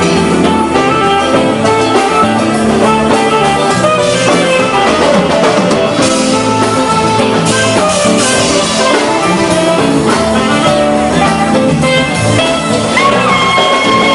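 Live band playing an instrumental passage with electric guitar and drum kit. A long high note is held near the end.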